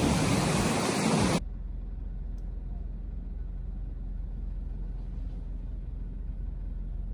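Steady rushing rain noise that cuts off abruptly about a second and a half in, leaving only a faint, steady low rumble.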